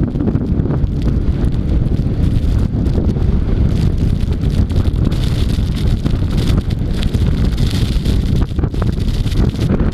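Strong wind buffeting the microphone in a loud, gusting low rumble, with a higher rushing hiss that swells about halfway through.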